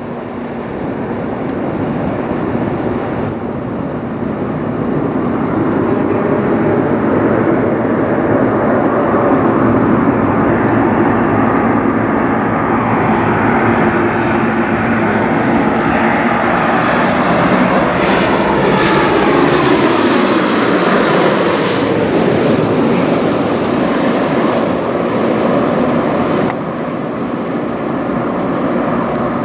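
Boeing 737 MAX 8 jet airliner passing low overhead, its CFM LEAP-1B turbofan engines growing louder to a peak about twenty seconds in, with a falling whine as it goes past.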